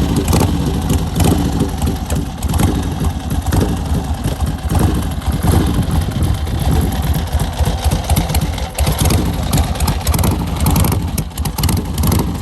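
A loud vehicle engine running steadily, with rapid exhaust pulses.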